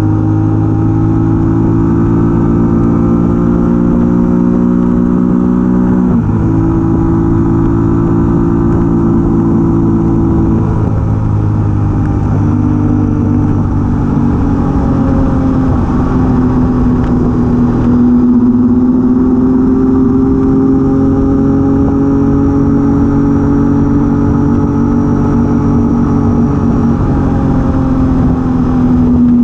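Triumph Daytona T595's three-cylinder engine running on the road at steady revs. Its note steps down sharply about six seconds in, shifts again around ten seconds, then climbs slowly through the rest.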